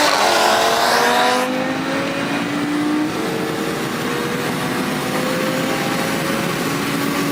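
Car engine under hard acceleration, its pitch rising through the gears. It eases and drops about a second and a half in, then climbs again more slowly, with another step near three seconds.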